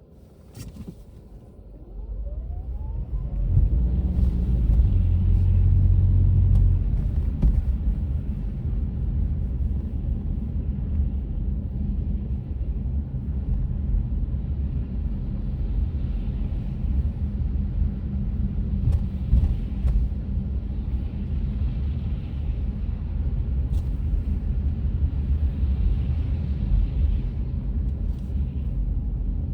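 Low, steady rumble of a car on the road, heard from inside the cabin. It is quiet at first, swells about two seconds in as the car picks up speed, and then holds steady.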